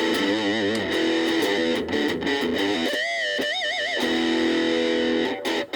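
Gaban Les Paul-type electric guitar played through a VOX Soundbox Mini amp: single-note lines with held notes shaken by wide vibrato. The playing breaks off briefly near the end.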